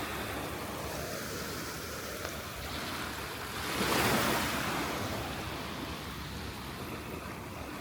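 Surf washing onto a sandy beach, one wave swelling louder about halfway through, with some wind on the microphone.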